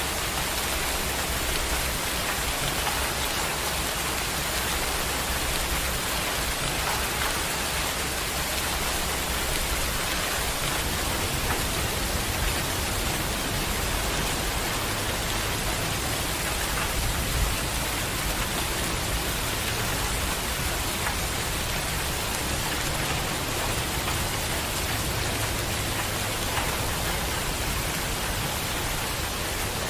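Heavy rain falling steadily, an even hiss of drops on surfaces with no change in strength.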